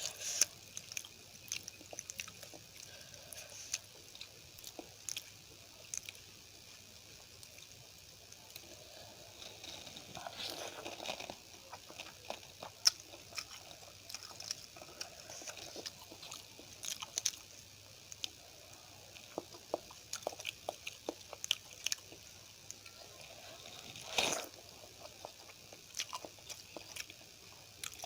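Close-miked eating sounds: chewing and biting through a meal of poori, rice and potato curry with sambar, with many short sharp mouth clicks and a louder burst about ten seconds in and again near the end.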